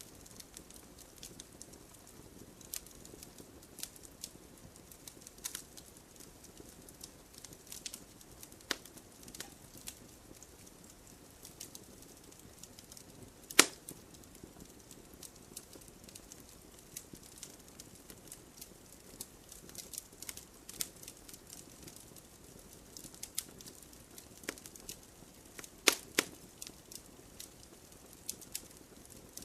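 Campfire burning with a low steady hiss and irregular crackles of wood. The loudest sharp pops come about a third of the way in and again near the end.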